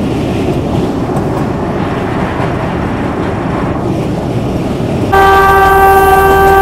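Narrow-gauge diesel train running, a steady rumble of wheels on the track mixed with wind. About five seconds in, the locomotive's horn starts suddenly and is held as one loud, steady note.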